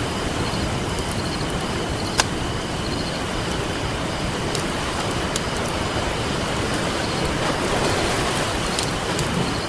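Campfire crackling with a few sharp pops, the loudest about two seconds in, over the steady wash of ocean surf.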